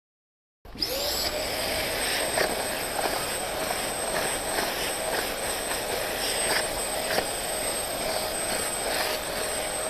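Vacmaster VK1323PFR spray-extraction vacuum's suction motor starting about half a second in and running steadily with a high whine, with occasional brief crackles as it extracts from the carpet.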